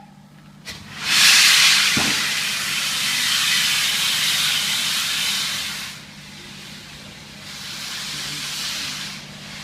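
Steam locomotive venting steam: a loud hiss lasting about five seconds, then a second, weaker hiss near the end.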